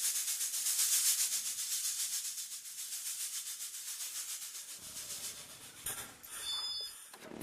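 Fast, even rhythmic shaking hiss in the film's soundtrack, softening over the last couple of seconds, with a few brief high tones near the end.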